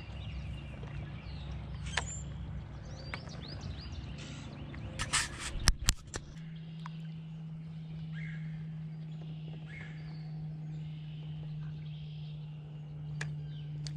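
Birds chirping and calling, with a few sharp knocks about five to six seconds in and a steady low hum after them.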